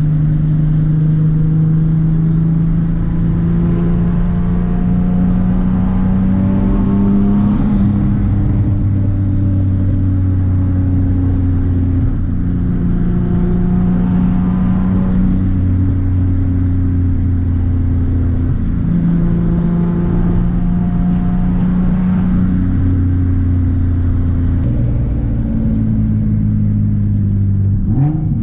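Turbocharged Nissan 370Z's 3.7-litre V6 pulling up through the revs three times. Each time a high turbo whistle climbs in pitch with the engine and then falls away as the revs drop at the shift, with the engine's steady drone in between.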